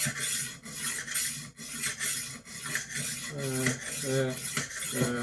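Rolling knife sharpener's abrasive disc rolled back and forth along a kitchen knife's edge, giving a rhythmic rasping scrape about twice a second.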